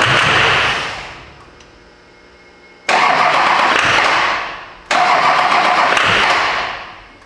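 LB7 Duramax diesel engine revved in sharp throttle blips: it jumps suddenly to a loud, rushing rev, holds about a second and falls back to idle, once at the start and twice more about three and five seconds in.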